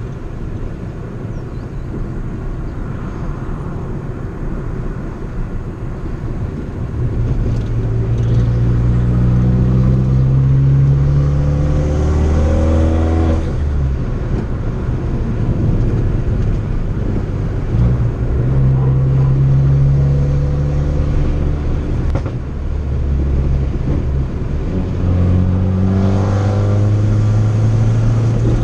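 Turbocharged 1.4-litre four-cylinder of a tuned 2013 Fiat 500 Abarth under hard acceleration. The engine note climbs steeply in pitch three times, each time falling away suddenly as the driver comes off the throttle. A single sharp pop comes as the revs fall the second time.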